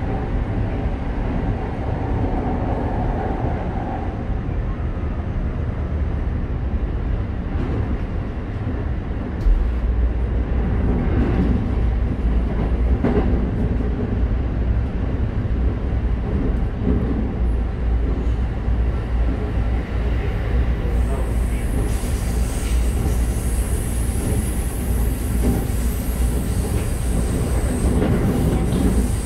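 Keikyu 1000 series electric train with Mitsubishi IGBT-VVVF traction running at speed, heard from inside a car: steady wheel-and-rail rumble with occasional knocks. The low rumble grows louder about nine seconds in, and a high whine joins about twenty seconds in.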